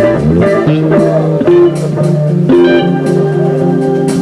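Amplified guitar music played live, with notes that slide and bend in pitch near the start, then long held notes.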